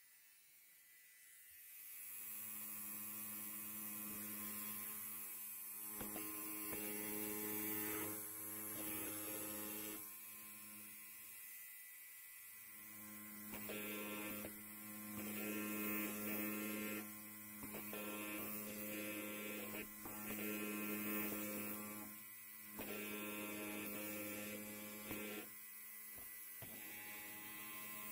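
Electric hair clipper buzzing. It starts about two seconds in, then swells and dips in loudness several times as it works.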